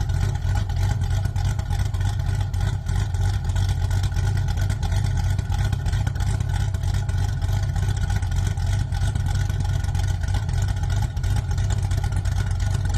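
Car engine running at a steady speed with a deep, even exhaust drone; no revving.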